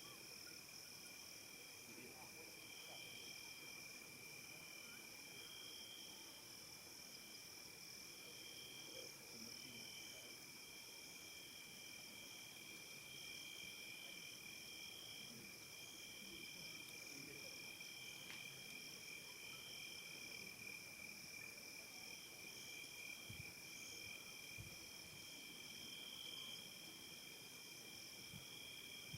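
Faint evening chorus of crickets and other insects: several steady high-pitched trills layered together, one of them pulsing on and off every second or two.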